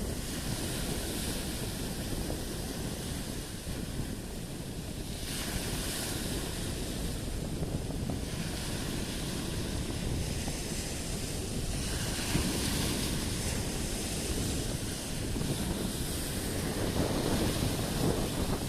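Black Sea waves breaking and washing in, with a surge of hissing wash every few seconds, under a steady low rumble of wind buffeting the microphone.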